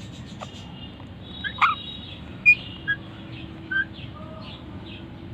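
Birds calling: about five short chirps and squawks, the loudest about a second and a half in and again at two and a half seconds, over faint continuous chirping.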